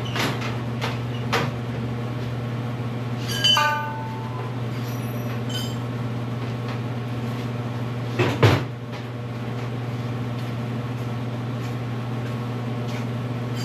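A steady low mechanical hum, with a few clicks, a brief metallic clatter that rings for a moment about three and a half seconds in, and a heavy thump about eight seconds in.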